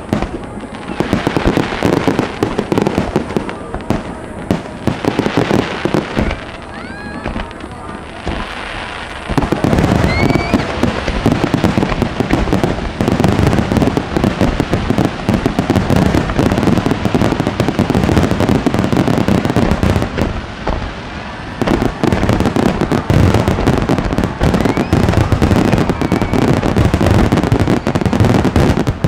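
Large star mine fireworks barrage: a dense, continuous run of booming shell bursts and crackle, growing heavier about nine seconds in. A couple of rising whistles cut through near seven and ten seconds.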